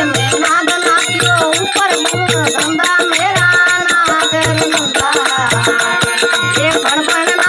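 Rajasthani folk bhajan music: a dholak beats a steady rhythm of paired low strokes about once a second while manjira cymbals jingle continuously over a wavering melody line.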